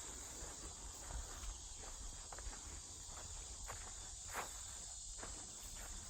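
Steady high-pitched chorus of insects in the woods, with irregular footsteps crunching on the trail every second or so and a low rumble underneath.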